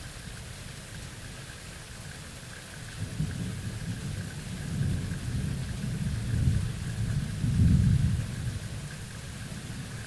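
Thunderstorm: steady rain hiss, with low thunder starting to rumble about three seconds in, swelling in waves and easing off near the end.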